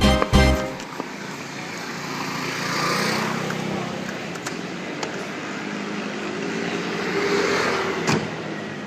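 Background music cuts off about half a second in, leaving car and traffic noise: a steady low engine hum with road noise that swells twice, and a short sharp knock near the end.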